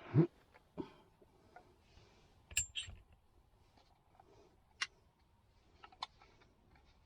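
Scattered small knocks and clicks of things being handled: a dull knock just after the start, a brighter ringing clink about two and a half seconds in, then a few single clicks.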